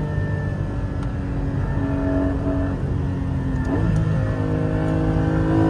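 Car engine running under load, heard from inside the car, its pitch shifting a couple of times with a quick rise in revs a little past the middle.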